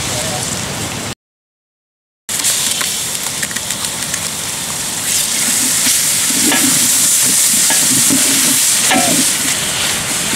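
Sliced onions and green chillies sizzling in hot oil in a large aluminium pot over a wood fire, stirred with a ladle cut from a palmyra frond stem. The sound cuts out for about a second near the start.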